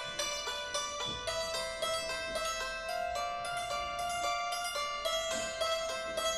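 Santoor playing a melancholy instrumental tune in a quick, even stream of hammered notes that ring on, with a few soft low percussion thumps underneath.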